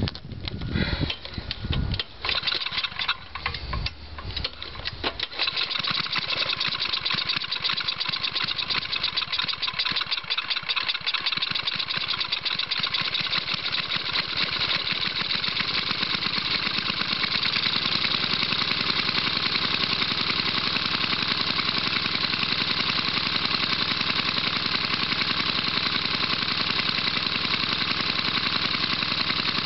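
1975 Tecumseh 5 hp single-cylinder engine starting from cold: it sputters unevenly for the first few seconds, then catches and runs, settling into a steady, even run from about halfway through.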